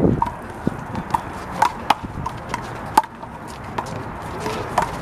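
Sharp smacks of a rubber handball struck by hand and hitting the wall, several scattered through a few seconds, the loudest about three seconds in.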